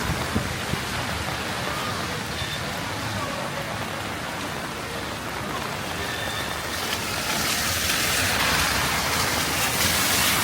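Heavy rain falling on a city street, a steady hiss that grows louder over the last few seconds.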